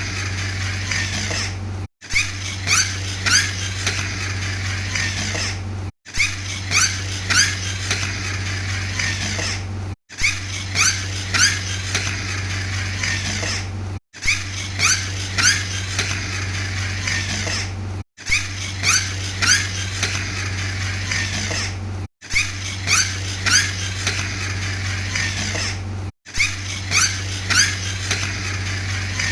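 Friction-powered toy monster truck's flywheel gears whirring: several short rising squeaks as it is pushed in quick strokes, then a faint falling whine as the flywheel spins down, over a steady low hum. The same sequence repeats about every four seconds, with a brief dropout between repeats.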